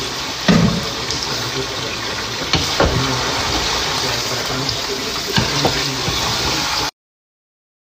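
Chicken karahi sizzling in a pot on a gas stove, stirred with a wooden spoon that knocks against the pot a few times. The sound cuts off abruptly about seven seconds in.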